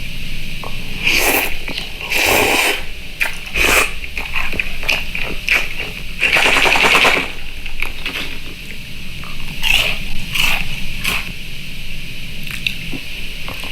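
Close-up eating sounds: loud, irregular crunching and chewing bursts, with one longer stretch of crunching about two thirds of the way through.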